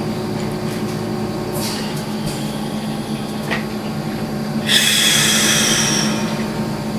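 A steady low machine hum throughout, with short scratchy brush strokes on canvas. A louder, longer rubbing stroke of about a second and a half comes just past the middle.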